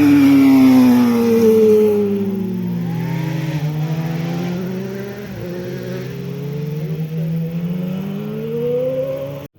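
Motorcycle engine running hard, its pitch falling steadily over the first few seconds, then climbing again as it revs back up, before the sound cuts off abruptly near the end.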